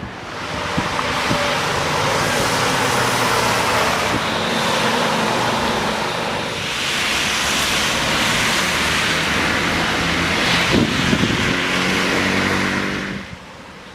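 Motor vehicles driving along a flooded road, their tyres throwing up water in a loud, continuous hiss that swells twice and drops off sharply near the end, with engine hum underneath.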